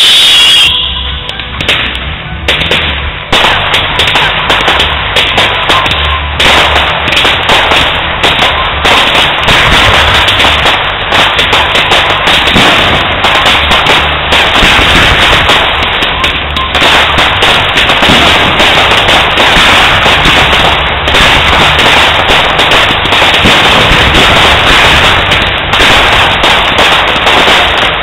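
Fireworks display: a dense, continuous barrage of rapid bangs and crackles, very loud and overloading the recording, thickening after a brief dip about a second in.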